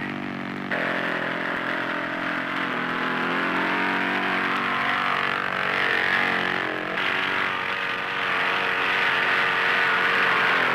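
A light propeller plane's engine droning steadily at takeoff power. The sound changes abruptly about a second in and again about seven seconds in.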